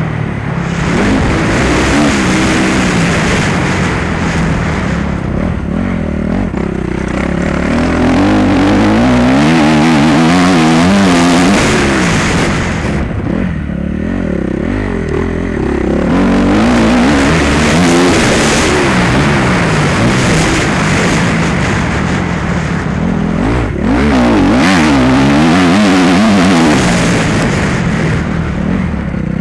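Motocross bike engine being ridden hard, revving up and falling back again and again as the throttle opens and closes and gears change.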